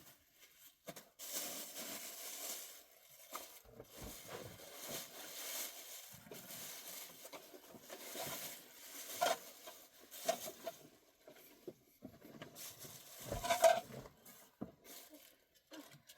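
Irregular rustling and scraping with scattered light knocks, as of things being handled, and a louder clatter about thirteen seconds in.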